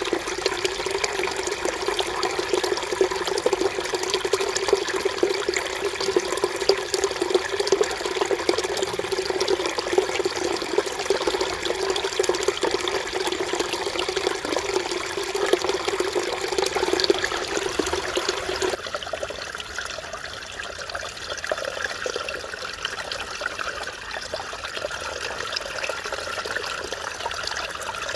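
Mountain valley stream running over rocks, a steady babbling and splashing. About two-thirds through, the sound changes abruptly to a thinner, lighter trickle, as if from another part of the stream.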